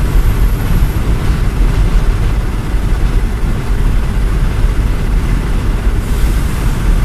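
Strong sandstorm wind buffeting the microphone: a loud, rough, unpitched low rumble, with a hissing gust about six seconds in.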